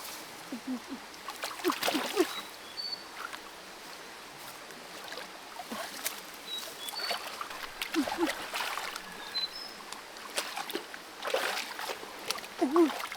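Water splashing and trickling in a shallow creek, in irregular bursts. Several short voiced exclamations and a few brief, faint high chirps are mixed in.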